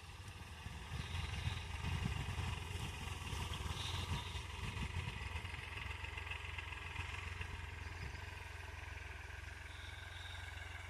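New Holland 3600-2 tractor's three-cylinder diesel engine running steadily under load while pulling a reversible plough; it grows louder about a second in.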